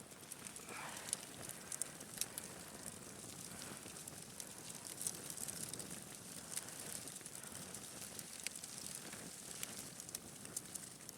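Small campfire burning down, crackling faintly with scattered sharp pops.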